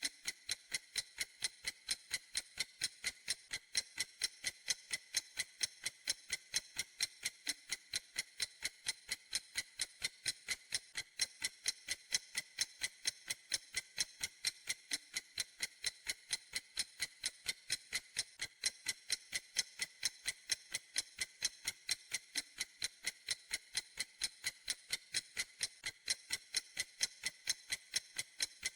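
Clock ticking steadily: evenly spaced, crisp, high ticks, a few each second, with no pause or change.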